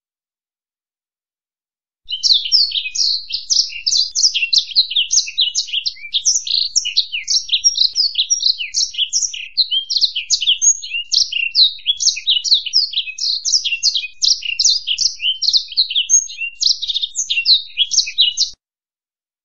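Finch song: a fast, unbroken run of high twittering and trilling notes that starts about two seconds in and cuts off abruptly near the end.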